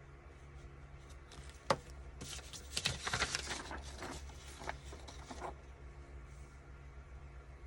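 Paper being handled on a craft table: a sharp tap, then a few seconds of crackly rustling and scraping of paper.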